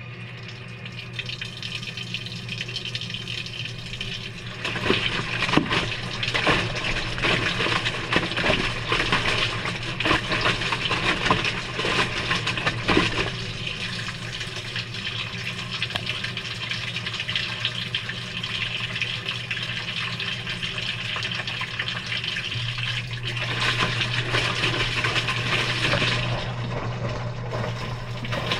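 Water rushing into the drum of a Maytag front-loading washing machine, heard from inside the drum, over a steady low hum. The rush grows louder about five seconds in, with scattered knocks.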